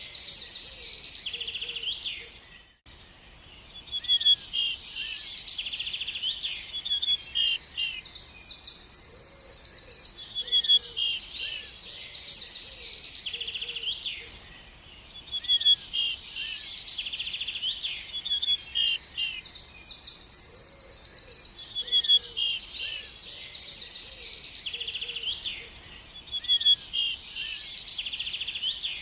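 Birds singing: a continuous run of high chirps and fast trills, broken by short pauses about three, fifteen and twenty-six seconds in.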